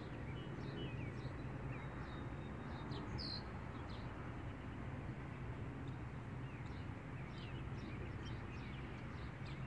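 Small birds chirping now and then, short high calls scattered through, the clearest about three seconds in, over a steady low background rumble.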